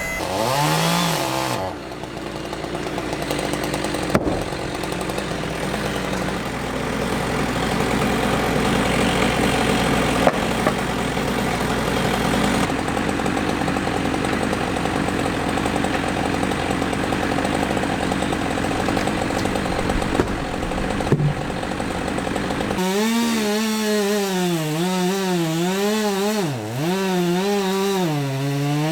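Chainsaws cutting oak wood. The sound changes abruptly twice. For the last several seconds a single saw's engine note rises and falls again and again as it works through the cut.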